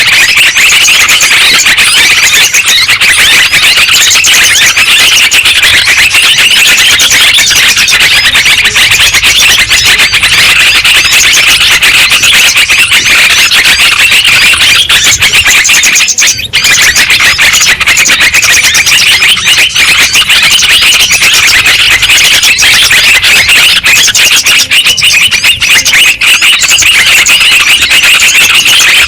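Dense, loud chorus of yellow-vented bulbuls (trucukan) chattering, many rapid overlapping calls without pause, briefly breaking off about halfway; a luring recording meant to set other bulbuls calling.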